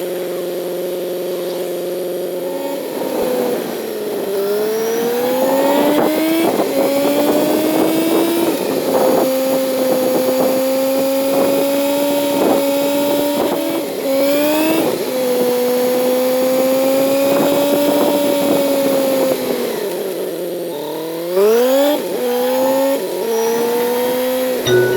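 Kawasaki Z900's inline-four engine running under way, revving up in several rising steps with breaks at the gear changes, then holding steady. Near the end the revs drop sharply, then climb quickly again.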